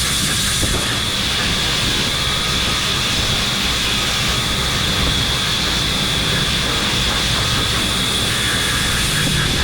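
Workshop machinery running steadily: an even mechanical noise with a constant high whine over a low rumble.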